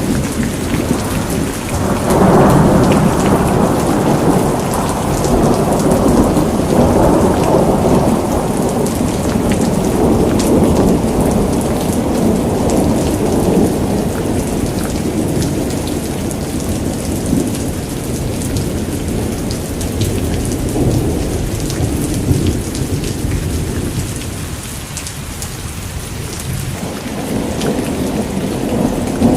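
Steady rain with a long roll of thunder: a deep rumble builds about two seconds in and dies away slowly over some twenty seconds, and another rises near the end.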